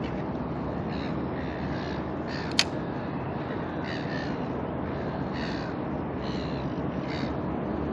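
A bird calling over and over in short calls, roughly one a second, over a steady background hiss. A single sharp click about two and a half seconds in.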